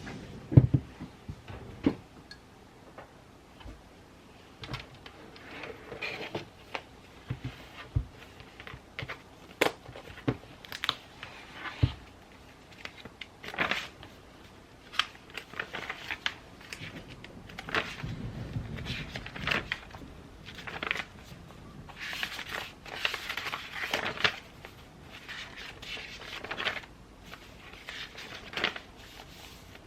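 Close handling of journaling supplies and paper on a desk: scattered clicks and knocks of small items being picked up and set down, with stretches of paper rustling.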